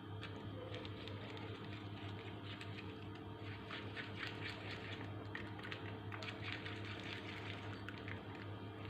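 A spoon stirring and mashing a soft cheese, milk, starch and coffee paste in a bowl: faint, rapid, irregular light clicks of the spoon against the bowl, over a steady low hum.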